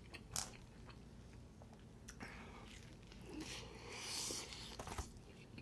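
Close-miked chewing of pizza dipped in garlic sauce: scattered wet mouth clicks and smacks, with a longer, hissier smack about four seconds in.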